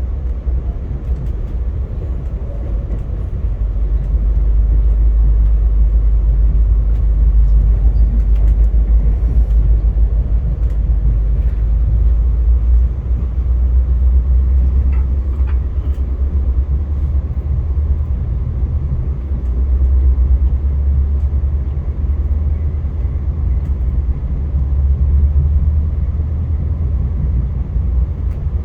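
Via Rail passenger train in motion: a steady low rumble that grows louder about four seconds in.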